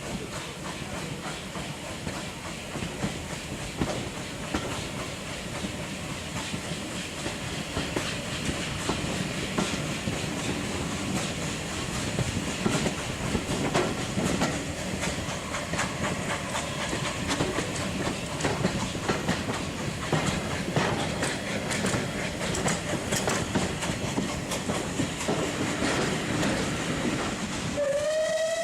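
Steam-hauled train carriage running at speed, heard from the train window: a steady rumble with wheels clicking over rail joints. In the last second a steam whistle begins to sound with a slight upward slide in pitch.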